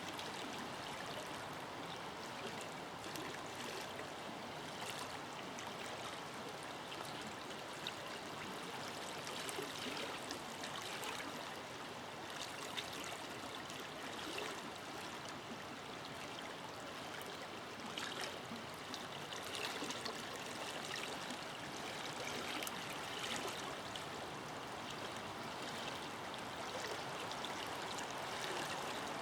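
A forest river flowing steadily over stones, with a continuous rush and many small splashes and gurgles.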